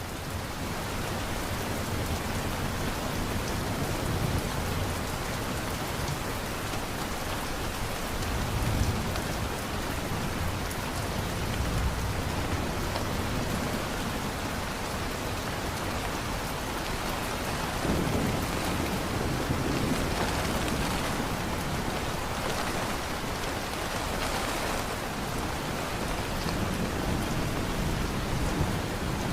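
Steady heavy rain hissing and pattering on surfaces, with low rolling rumbles of distant thunder swelling several times.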